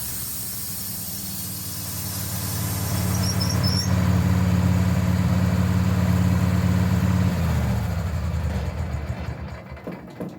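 Portable sawmill's engine running, throttling up about two seconds in and holding a steady loud pitch, with a few brief high squeaks, then winding down near the end.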